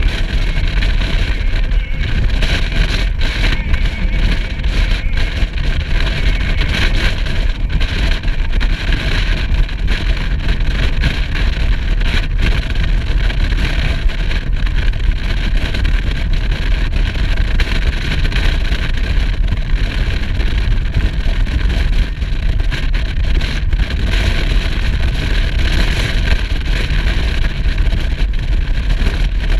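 Motorcycle riding at a steady speed: the engine runs under a constant rush of wind noise on the microphone, with a heavy low rumble.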